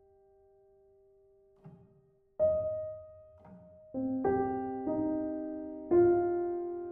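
Slow solo piano music: a held note fading away, then single notes and chords struck every second or so from about two and a half seconds in, each left to ring out.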